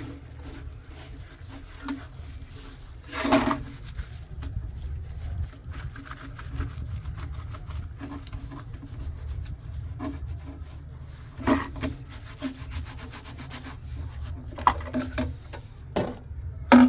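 Rubbing and scraping with a few sharp knocks, over a steady low hum.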